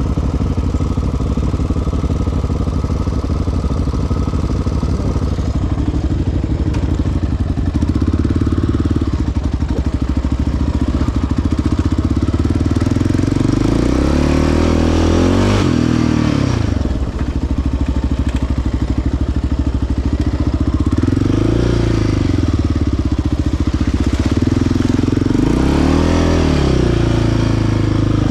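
Single-cylinder four-stroke sport quad engine running on an off-road trail. It holds an even note at first, then revs up and back down several times in the second half as the throttle is worked.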